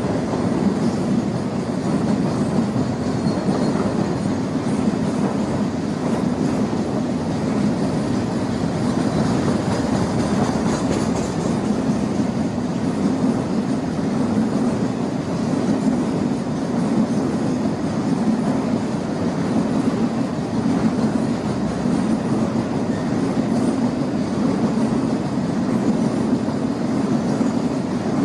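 Container flat wagons of a long freight train rolling past on the rails: a steady, deep noise of steel wheels running on track, unchanging throughout.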